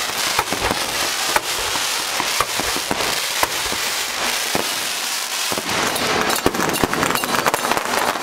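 Firecrackers going off in a dense, continuous crackle of many sharp small bangs.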